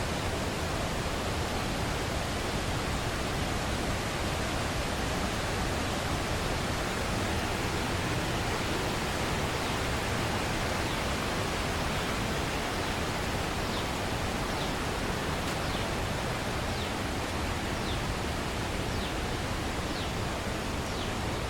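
Steady roar of a large waterfall, an even rushing noise. In the second half, faint short high chirps come about once a second.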